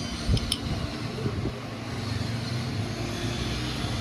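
A motorcycle engine running steadily with a low, even hum, and a sharp thump about a third of a second in.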